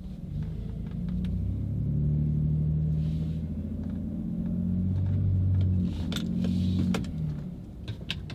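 The 4.3-liter V6 of a 2017 Chevy Silverado, fitted with an MBRP aftermarket dual exhaust and a custom tune, heard from inside the cab while driving. It gives a deep exhaust drone that swells and eases as the throttle changes. A few light clicks come in the last few seconds.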